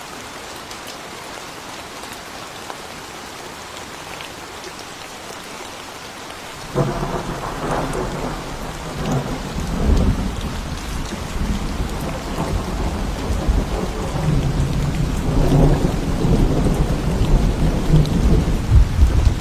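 Steady rain falling, then about seven seconds in a thunderclap breaks in sharply and rolls into a long, deep rumble of thunder that swells again near the end.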